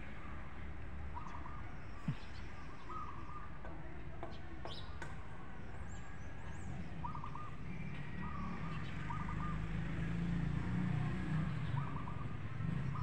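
A bird chirping in short runs of quick notes, about seven times, over a steady low rumble that grows a little louder in the second half.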